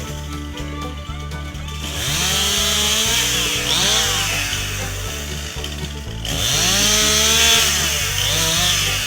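A Stihl MS261 C two-stroke chainsaw revving up and cutting beech twice, each time for about two seconds with its pitch rising and falling, over background music with a steady bass line.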